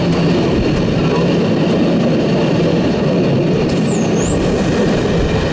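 Steady running noise of a steam-hauled passenger train's carriages rolling over the track, heard from an open carriage window.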